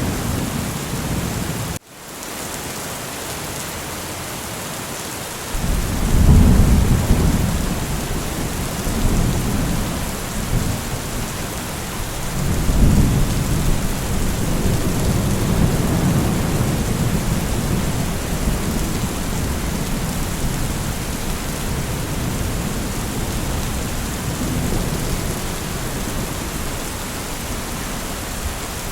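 Steady rain falling, with low rolls of thunder, one building about six seconds in and another about thirteen seconds in, each fading out slowly. A brief drop in the sound about two seconds in.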